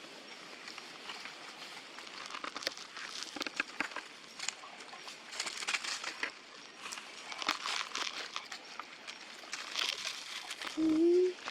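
Irregular crinkling and crackling rustles with scattered clicks, like dry leaves or wrappers being handled. Near the end comes one short, loud call that rises in pitch.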